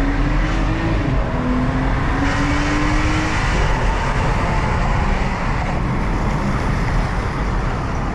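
The turbocharged inline-six of a 2017 BMW X4 35i accelerating, heard from inside the cabin. The engine note rises, drops back at an upshift about a second in, and climbs again until about halfway through. After that it settles into steady engine and road noise.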